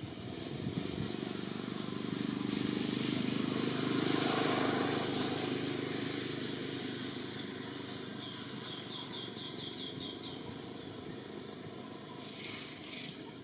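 A motor vehicle passing by, its engine noise swelling to a peak about four seconds in and slowly fading. About nine seconds in comes a quick run of about eight short, high chirps.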